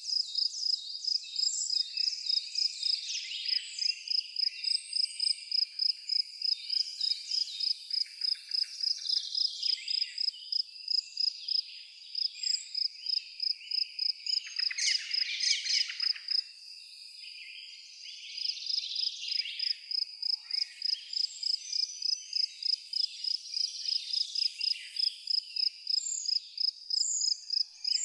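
A cricket chirping steadily in even pulses, about two a second, with a short break just past the middle, under several birds singing and chirping.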